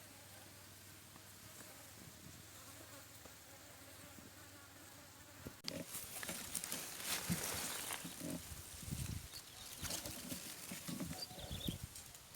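Faint steady insect buzzing in the background; about halfway through, irregular rustling and knocking close to the microphone takes over.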